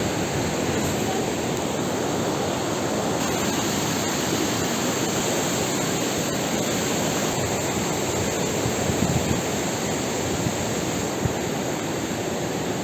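Steady rush of fast-flowing water, an even noise that does not let up.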